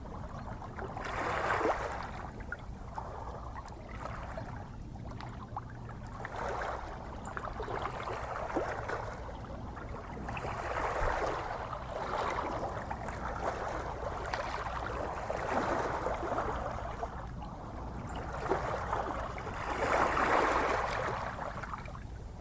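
Gentle ocean waves washing and lapping, swelling and easing every few seconds, with the biggest swell near the end, over a steady low rumble.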